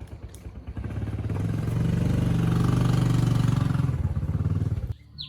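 Motorcycle engine running, growing louder and then fading. The sound cuts off abruptly near the end.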